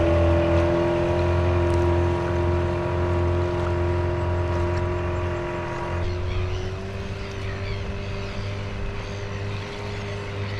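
Outboard motor of a small boat running steadily as it pulls away, its note stepping up slightly about six seconds in while it slowly fades.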